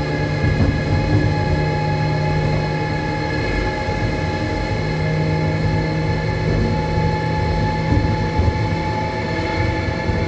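Electric train running at a steady speed, heard from inside the driver's cab: an even rumble of the running gear with a constant hum and whine from its electrical equipment.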